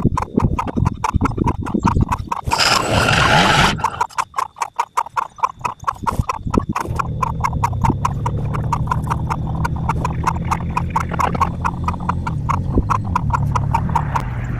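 A small engine running with a fast, regular clatter of clicks, a short burst of hiss about two and a half seconds in, then a steady low engine hum settling in from about seven seconds as the machine works.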